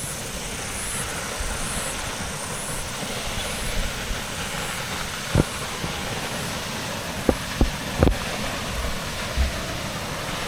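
Steady rushing of a waterfall, with cicadas chirping in a high-pitched pulsing chorus about once a second that fades after the first few seconds. A few short knocks come a little past the middle.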